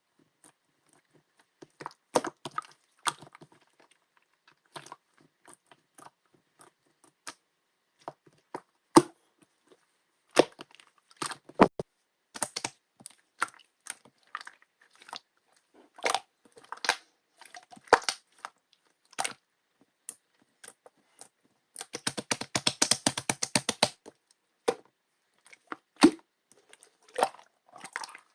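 Pink jelly slime worked by hand, giving scattered sticky clicks and pops. Near the end comes a dense run of rapid clicks lasting about two seconds.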